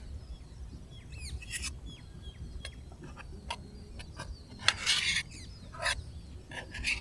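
Scattered light clicks and taps of camp cookware and utensils being handled, with a short scraping rasp about five seconds in. A few bird chirps sound about a second in, over a steady low rumble of wind.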